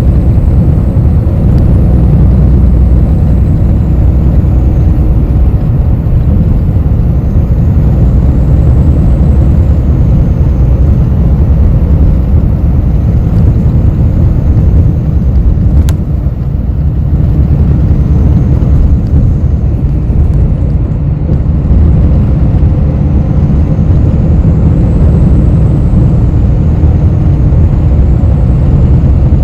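Ride noise inside a city bus: a steady low rumble of engine and road. A single sharp click comes about halfway through.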